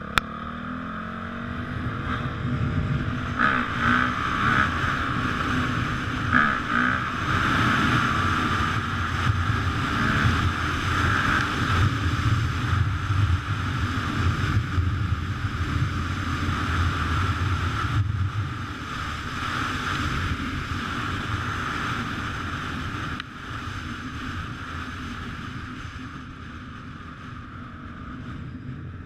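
Honda CRF450R dirt bike's single-cylinder four-stroke engine running under a rider, revving up and down, easing off and quieter after about twenty-three seconds.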